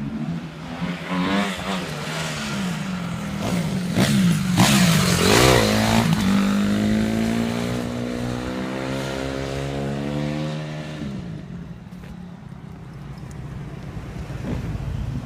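An engine revving up and down, then holding a steady, slowly rising pitch before dropping back near the end.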